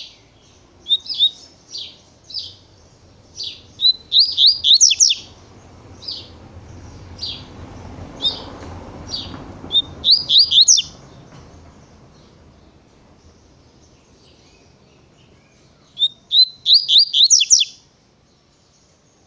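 Double-collared seedeater (coleiro) singing its 'tui-tui' song: spaced single high chirps, broken three times by a fast run of four or five quick down-slurred notes.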